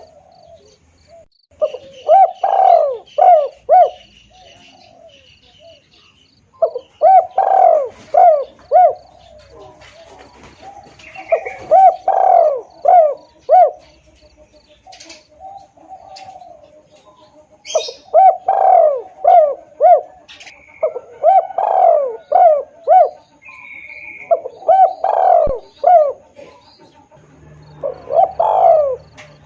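Spotted dove (tekukur) cooing: repeated phrases of several quick coos, each phrase lasting one to two seconds and coming every few seconds. A faint high, even insect-like chirping runs underneath.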